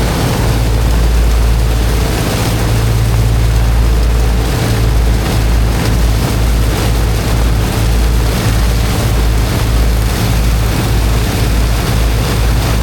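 Heavy engine of a high-pressure water pump running steadily under a constant rush of jetting water.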